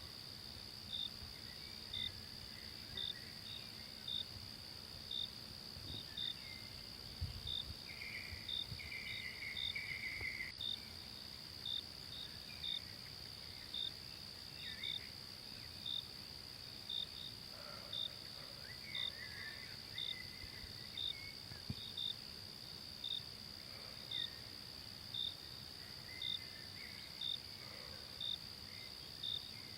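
Insect chorus: a steady high-pitched drone with a short cricket chirp repeating about once a second, and a few scattered bird calls.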